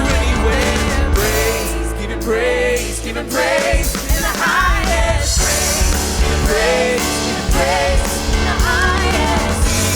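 Live worship band playing a song with singing, a wavering vocal melody over a full band with a steady bass line.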